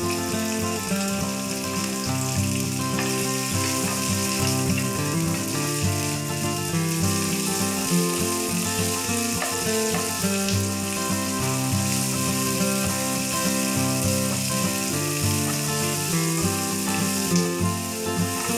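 Sliced onions and whole spices frying in hot oil in a pan, a steady sizzle, under background music with changing notes.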